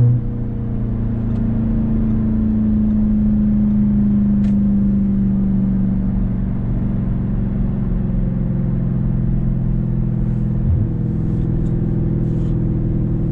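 Audi S6's V8 with a single-turbo conversion, cruising at a steady, light-load speed with an even engine drone and road noise; the pitch eases slightly lower partway through.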